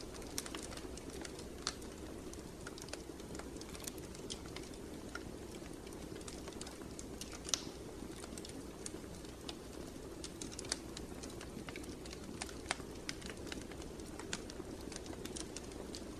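Wood fire crackling, with irregular sharp pops and snaps over a steady low rush of the flames; one louder pop comes about halfway through.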